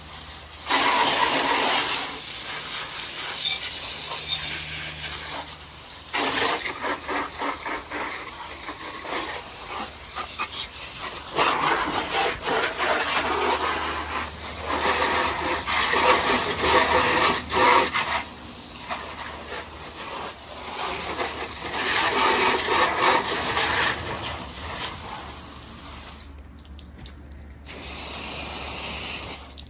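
Water from a hose spraying onto a motorcycle to rinse it off, a hissing splash that comes in long spurts with short breaks and dies down near the end.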